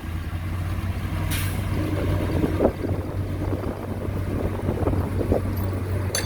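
Heavy diesel engine running steadily, with a short hiss about a second in and a sharp clank near the end.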